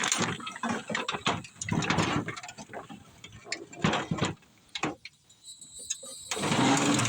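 Irregular metal knocks, clunks and scrapes of a small mower engine being shifted and turned around on a pickup truck's tailgate, with a short pause about two-thirds of the way through.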